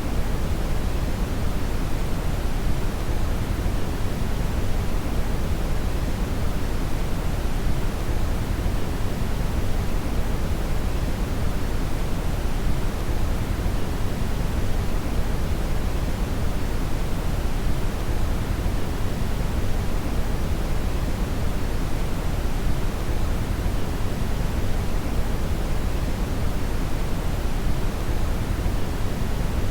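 Steady synthetic brown noise: a deep, even rushing hiss with most of its energy in the bass and little in the highs, unchanging throughout.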